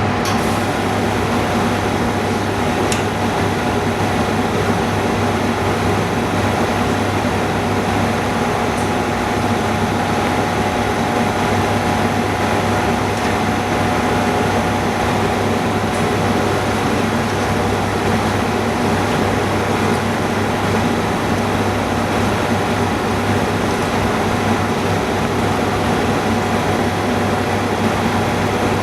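Steady machine hum and hiss, unchanging throughout, with a few faint light ticks.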